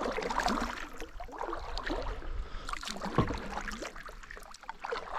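Kayak paddle strokes in river water, with irregular splashes and dripping.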